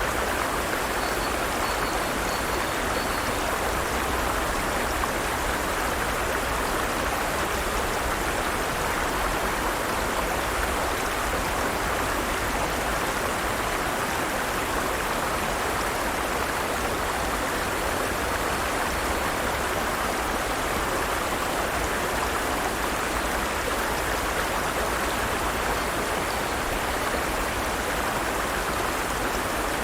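Forest stream running steadily, an even rush of flowing water.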